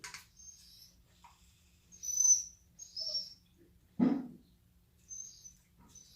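A few short, high-pitched squeaks from the pets, the loudest about two seconds in, with a single short low sound about four seconds in.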